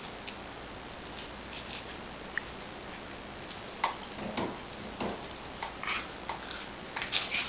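A baby bouncing in a bouncer chair: scattered short clicks and small squeaky mouth sounds that grow busier after about four seconds.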